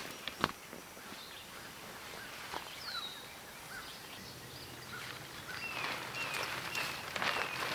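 Woodland songbird calling: a few scattered chirps, then a short falling whistle repeated about twice a second through the second half. Light rustling and a couple of sharp clicks near the start.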